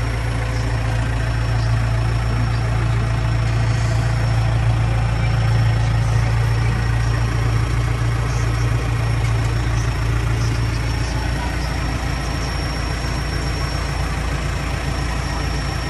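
New Holland TS100A tractor's diesel engine idling steadily, its low drone easing slightly about eleven seconds in.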